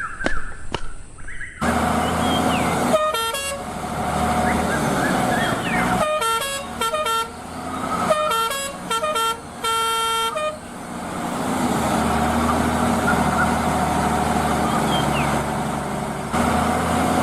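Cartoon vehicle engine running steadily, with several clusters of short horn honks. A few sharp footstep-like clicks come just before the engine starts.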